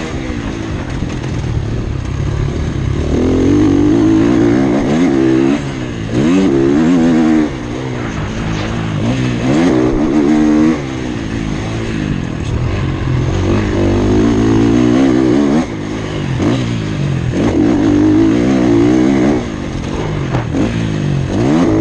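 Motocross bike engine heard on board, revving up hard and shutting off again and again, its pitch climbing and dropping as the rider accelerates, shifts and backs off around the track.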